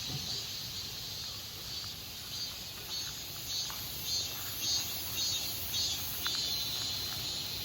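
Insects chirping outdoors, a steady high pulsing about twice a second over a soft background hiss.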